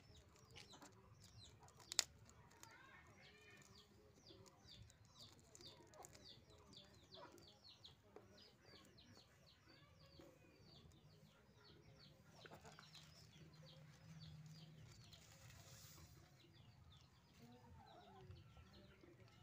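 Faint bird calls, many short chirps in quick series, with a single sharp click about two seconds in.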